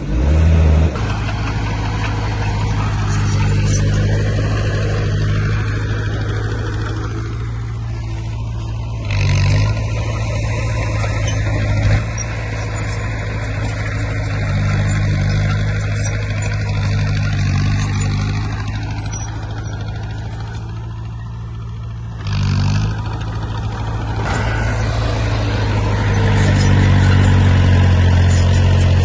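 Heavy diesel engine of earthmoving equipment running steadily with a deep drone, with two brief louder bursts, about nine seconds in and again about twenty-two seconds in, and the engine growing louder near the end.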